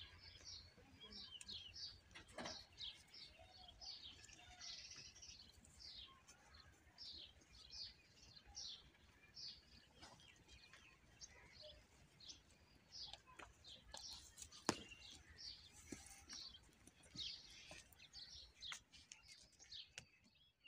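Faint chirping of small birds: short high chirps about twice a second, with a few clicks, the sharpest about two-thirds of the way through.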